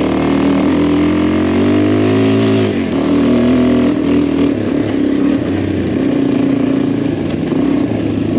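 Adventure motorcycle engine on the move, revving up through a gear for a couple of seconds, dropping in pitch at a gear change about three seconds in, then pulling on at a steadier pitch.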